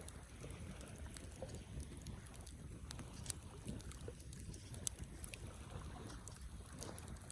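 Wood campfire burning: a low steady rumble of the flames with scattered crackles and pops, the sharpest two coming a little over three seconds and about five seconds in.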